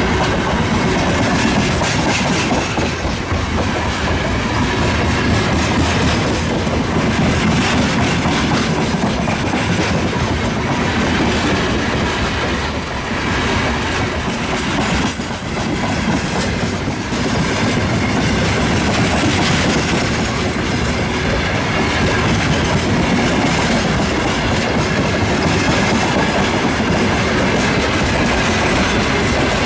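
Freight train wagons rolling past at a steady pace, wheels clacking over the rail joints, with a thin high squeal from the wheels that comes and goes in the first half.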